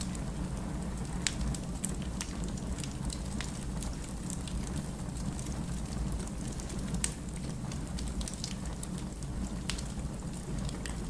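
Wood fire burning, with irregular sharp crackles and pops of the firewood over a steady low rumble.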